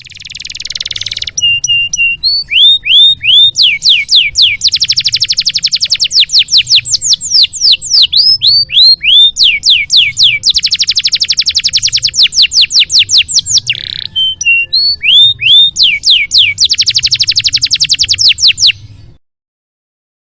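Canary singing a long, loud song of rapid rolling trills alternating with series of sweeping whistled notes, stopping abruptly near the end.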